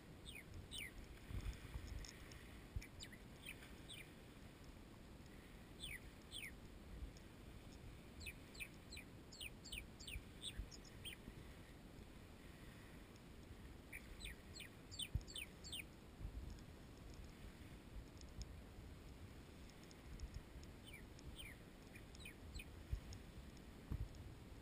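Small birds calling: quick, high chirps in runs of several, coming in bursts with pauses between, over a faint low rumble.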